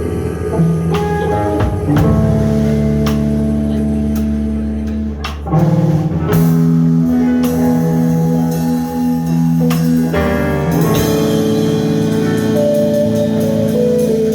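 Live jazz band playing an instrumental passage without vocals: guitar, bass guitar and drums, with sustained chords changing every few seconds and occasional drum and cymbal strikes.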